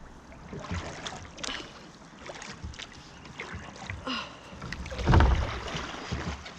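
Water splashing and knocking around a kayak while a hooked pike is worked toward shore, with irregular small knocks and a heavier thump and splash about five seconds in.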